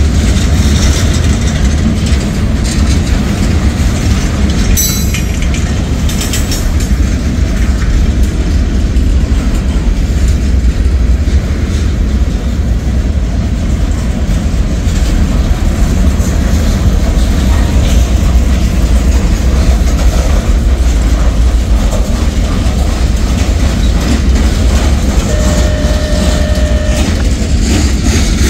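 Loaded freight cars of a mixed manifest train (tank cars, covered hoppers and boxcars) rolling past close by: a loud, steady rumble of steel wheels on rail with clickety-clack over the rail joints.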